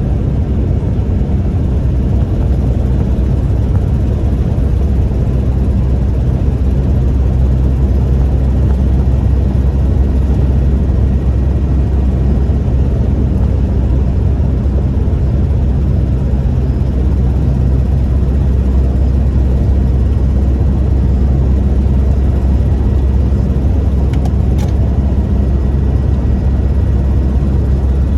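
1998 Toyota Tacoma 4WD pickup driving: a steady, low drone of engine and road noise.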